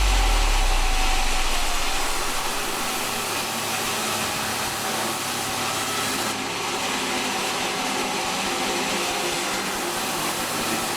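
Sawmill saw running with a steady, dense whirring noise; a deep low rumble under it dies away in the first second or two.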